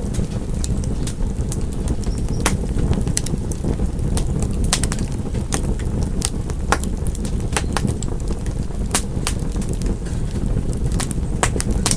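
Wood fire burning in a fireplace, with many sharp, irregular crackles and pops over a steady low rumble of the flames.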